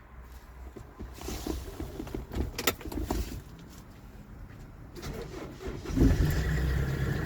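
Several clicks and knocks, then about six seconds in the Kia Bongo III truck's engine starts and settles into a steady idle.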